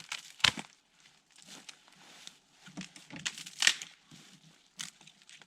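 Irregular rustling and scraping handling noises with light clicks, a sharp click about half a second in and the loudest rasp around three and a half seconds in.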